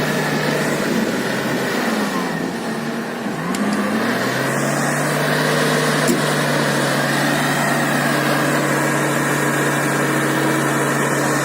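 Toyota Land Cruiser engine running at low revs. About two seconds in the revs sag and then climb back, and it settles into a steady, slightly louder run.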